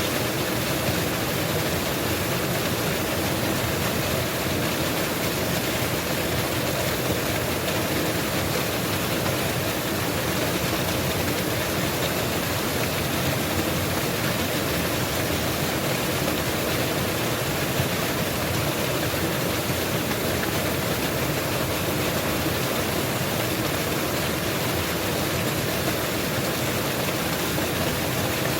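Mountain waterfall: falling water making a steady, even noise that holds without a break.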